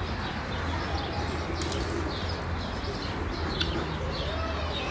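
Many birds chirping together in quick short calls, with a few lower cooing calls, over a steady low hum.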